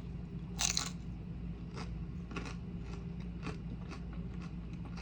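Close-up chewing with a crisp crunch, a bite into a tortilla chip, about half a second in, followed by softer crunches at irregular intervals as it is chewed.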